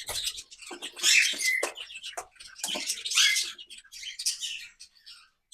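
A mixed flock of small aviary birds chirping and calling in quick, overlapping notes, with a few short rising calls among them.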